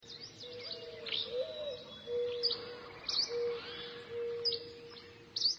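Birds chirping and calling: short, sharp high notes about once a second over a lower steady call held in stretches of about half a second, with a faint background hiss. It cuts off suddenly at the end.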